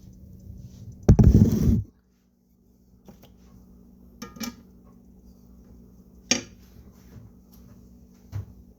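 Kitchen clatter: a loud rustling burst about a second in, followed by several sharp separate clinks of dishes and utensils.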